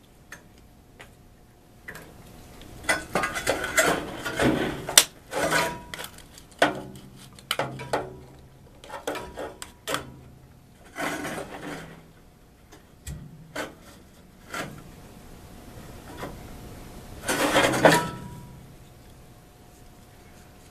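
Handling noises at a gas water heater's pilot controls: irregular rubbing, scraping and clicking, with a longer rustling burst near the end. A faint steady tone runs underneath.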